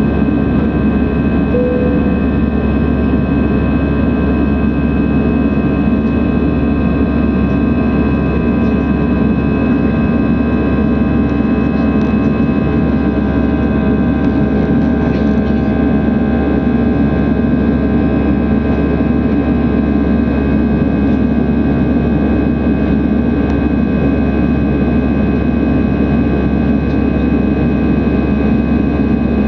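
Airliner jet engines running at steady high power during takeoff: a constant noise with several steady whining tones that hold their pitch. A brief tone sounds about two seconds in.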